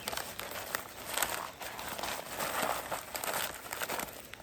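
Plastic and foil packets of dried food crinkling and rustling as they are handled and sorted through, a continuous crackle that is loudest a little past the middle.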